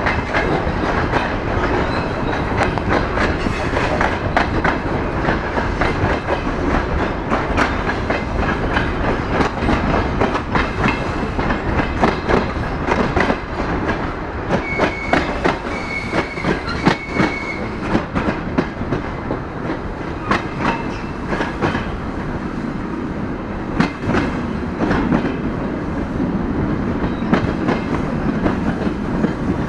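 DR1A diesel multiple unit running, heard through an open carriage window: a steady rolling noise with the clickety-clack of wheels over rail joints and points. Three short high squeals come about halfway through.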